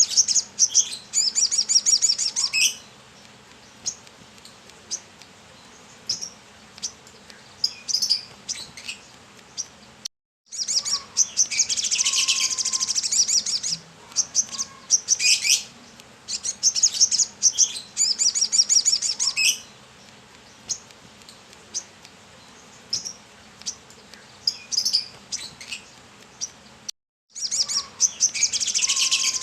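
Brown-throated sunbird (kolibri kelapa) singing vigorously: high, rapid chirping trills lasting a couple of seconds each, with scattered single chirps between them. The sound cuts out briefly about ten seconds in and again near the end.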